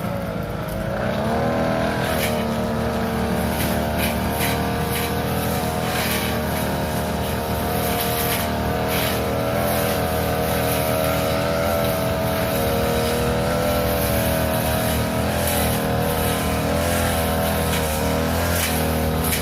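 Small petrol engine of a grass-cutting machine running while cutting overgrown grass and weeds. Its note dips at the start and picks back up within about two seconds, then holds steady with slight wavering, with frequent short ticks over it.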